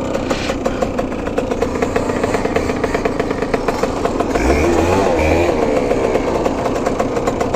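Dirt bike engine running steadily, its revs dropping and climbing again about halfway through.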